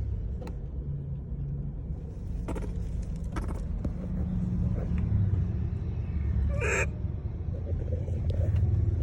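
Steady low rumble on the microphone with a few faint clicks, and one short high squeal from a monkey about seven seconds in.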